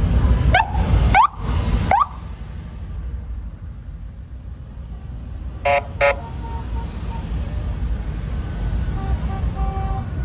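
Engine rumble with three quick rising chirps in the first two seconds, after which the rumble drops away; about six seconds in, two short horn beeps.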